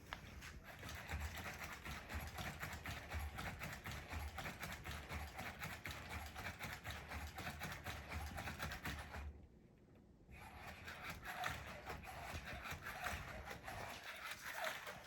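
Sony aibo robot dog moving about: a fast run of small clicks and scrapes over a low hum. It breaks off for about a second past the middle, then resumes.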